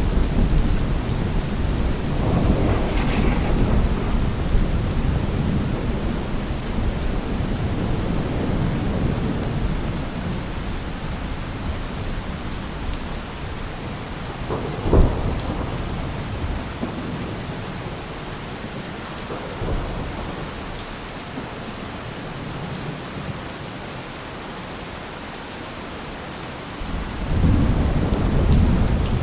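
Steady heavy rain with rolling thunder: a rumble fades over the first half, a sharp crack comes about halfway through, and a new loud roll of thunder builds near the end.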